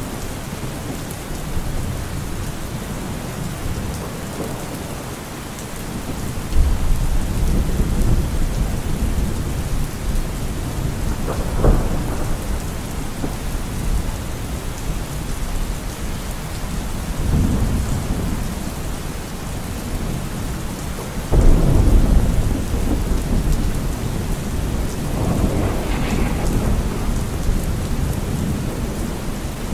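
Steady rain with several rolls of thunder. Low rumbles start suddenly about a quarter of the way in and again about two-thirds through; the second is the loudest.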